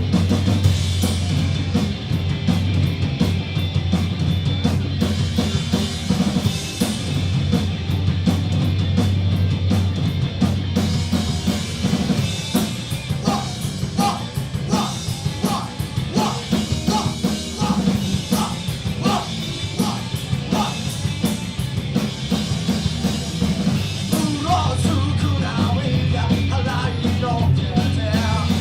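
Live rock band playing loud garage-punk: driving drum kit, bass and distorted electric guitars, with a run of evenly repeated picked guitar notes in the middle.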